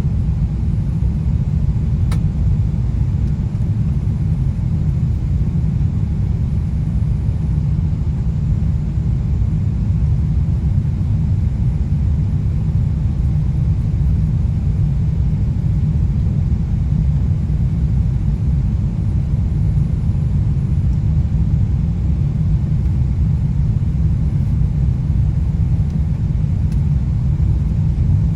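Steady low rumble of a Boeing 777-200 airliner's cabin noise in flight: engine and airflow noise, unchanging throughout.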